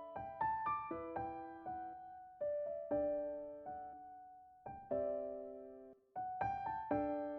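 Background music: a soft, slow piano melody of struck notes that die away, with a short pause about six seconds in.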